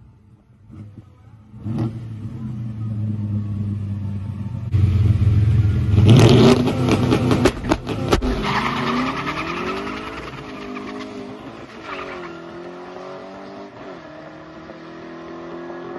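A 1957 Chevy's big-cam carbureted V8 makes a drag-strip launch. It revs up about two seconds in and gets much louder at about five seconds, crackling against the two-step launch limiter for a couple of seconds. It then launches and pulls away, the revs climbing and dropping back at each upshift as the sound recedes down the track. After the run the spark plug reads white, showing the engine is running lean.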